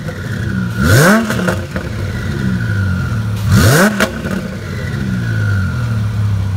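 Twin-turbocharged Lamborghini Huracán's V10 idling and revved twice, about a second in and again near four seconds. Each rev rises sharply in pitch, then falls back to idle, over a steady high whine.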